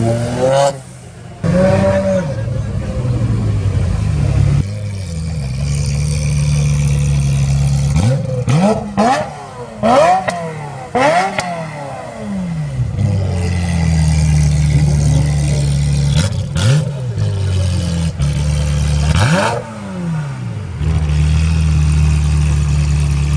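Car engine idling and being revved in a run of short blips, the pitch rising and falling several times, with one more rev a few seconds before the end before it settles back to a steady idle.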